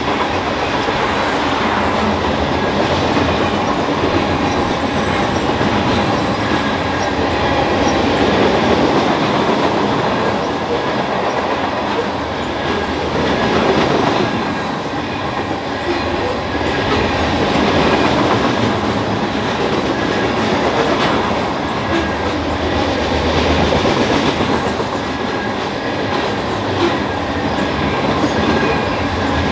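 Freight train of covered grain hopper cars rolling past at speed, its steel wheels running on the rails in a loud, steady rush that swells and eases every few seconds.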